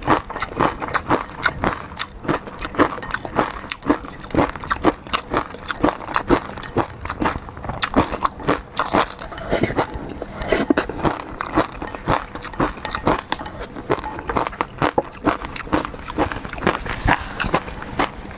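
Close-miked seafood eating: chewing and biting with a dense run of sharp, wet clicks and crunches.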